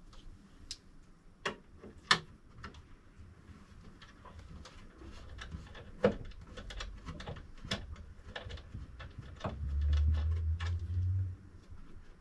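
Hands handling a 3D printer's packaging and parts: scattered clicks, taps and light knocks, with a low rumble of handling or a bump for about two seconds near the end.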